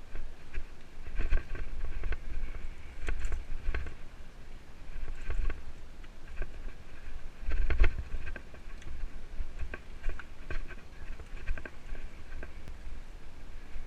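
Mountain bike rattling and clattering over a rough trail: irregular knocks and clicks from the frame, chain and components jolting, over a constant low rumble, with the hardest jolts about a second in, around three to four seconds in, and near eight seconds.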